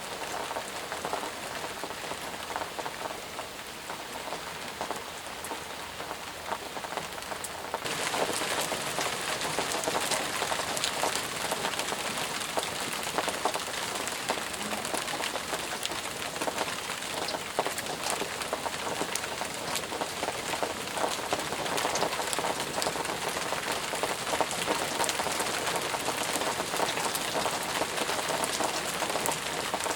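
Steady rain, with many separate drops ticking against a hiss. About eight seconds in it suddenly becomes louder and brighter, like a heavier shower, and holds there.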